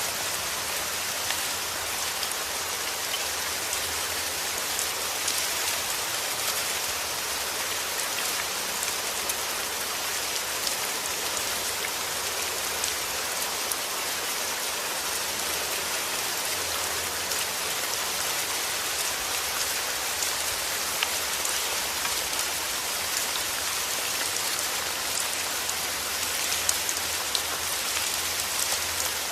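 Steady rain falling, a dense hiss of drops with scattered individual drop ticks.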